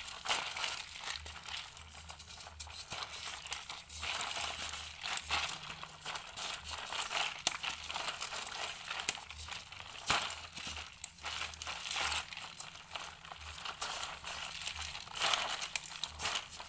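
A spoon stirring and scraping freshly frozen ice cream mix inside a tin can: a continuous run of irregular gritty scrapes and crunches as the frozen mix is broken up.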